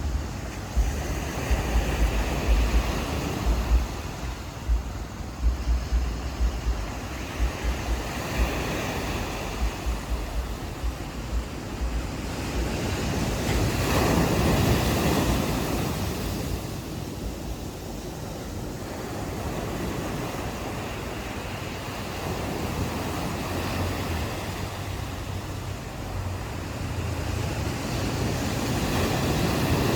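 Ocean waves washing onto a beach, the surf swelling to a peak about halfway through and building again near the end. Wind buffets the microphone with low rumbling thumps in the first third.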